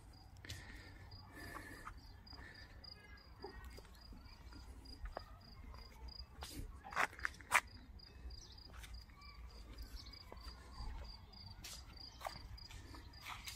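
Faint, steady high-pitched cricket trill of rapid, evenly spaced pulses, with a few sharp clicks and knocks in the middle and near the end.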